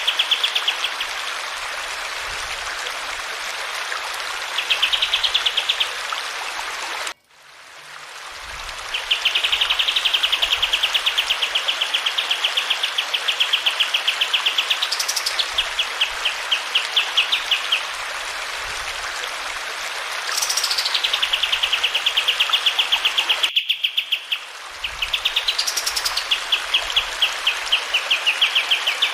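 Kapas tembak songbird singing long, rapid rolling trills with a few sharp upswept high notes, over the steady rush of flowing water. The sound cuts out briefly about seven seconds in and again near 24 seconds.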